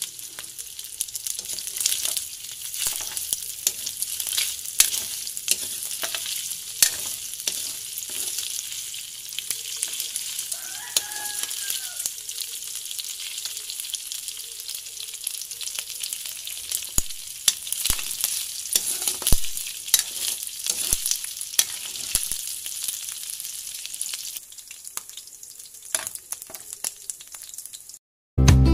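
Pork pieces sizzling as they fry in oil in a stainless steel wok, with a metal spatula clicking and scraping against the pan as they are stirred. The sizzle thins out in the last few seconds.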